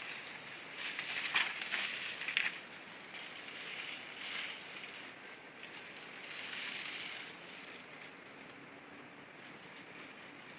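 Irregular rustling and brushing noises in several short bursts over the first seven seconds, then quieter.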